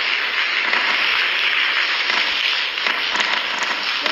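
Heavy rain pouring down steadily, a dense unbroken hiss and crackle.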